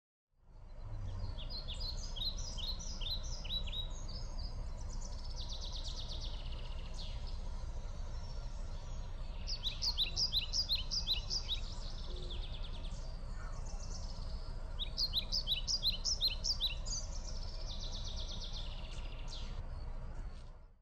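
Songbird singing several phrases of quick, high chirps over a steady low rumble.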